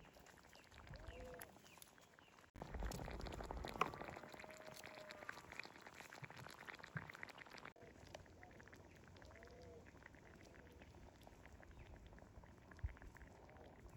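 Faint animal calls: short arching calls recurring every few seconds over quiet ambience.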